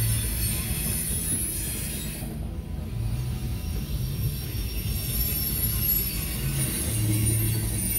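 Loaded coal hopper cars of a freight train rolling past with a steady low rumble of wheels on rail. A thin, high wheel squeal runs through the first couple of seconds, drops away, and comes back near the end.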